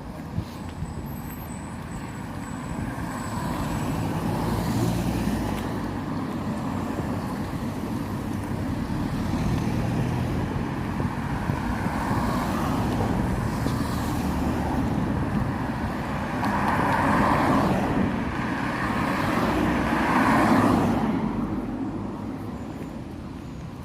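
Road traffic: cars passing one after another, the noise swelling and fading as each goes by, loudest twice in the last third.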